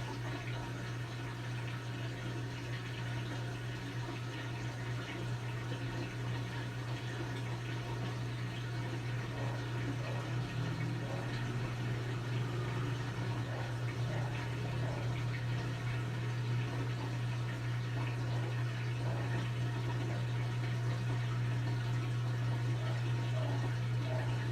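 Brastemp BWK17 17 kg washing machine partway through its quick cycle: water rushing through the machine over a strong steady low hum, growing slowly louder.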